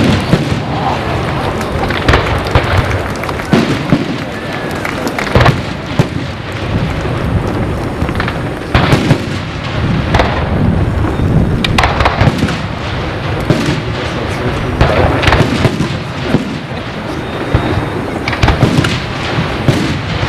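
Aerial fireworks display: shells bursting one after another in a dense run of bangs over continuous crackling and a low rumble.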